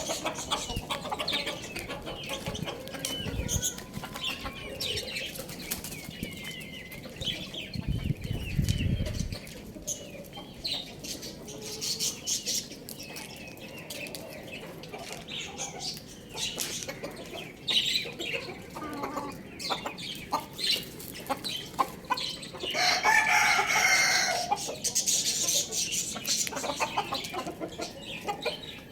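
Chickens clucking and flapping their wings, with many short high chirps and clicks throughout. A loud, longer call stands out near the end.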